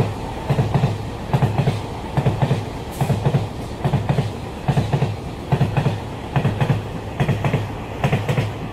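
Taiwan Railways EMU3000 electric express train passing through a station at speed: a steady rumble with the wheel sets clattering over the rail joints in a regular rhythm of double knocks, a little more than one pair a second.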